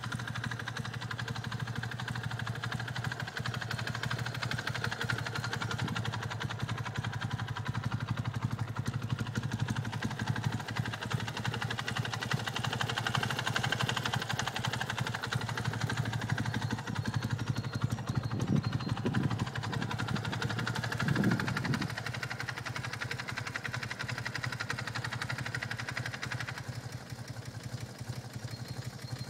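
BMW R100RT air-cooled flat-twin boxer engine idling steadily with a ticking rattle that the owner finds suspicious. It swells briefly twice past the middle.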